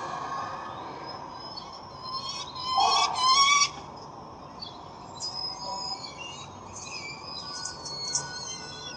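Peregrine falcon calling at the nest: a loud series of rapid repeated notes lasting about a second and a half, a couple of seconds in. Fainter, high chirps from smaller birds follow, over a steady background hiss.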